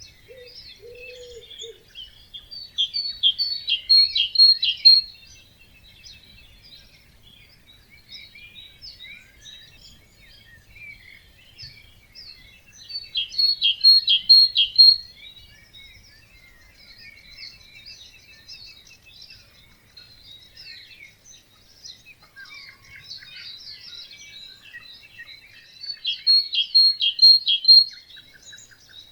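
Dawn chorus of many songbirds chirping and singing at a wetland. One bird sings a loud song phrase of about two seconds three times, roughly every eleven seconds. A low two-note call sounds near the start.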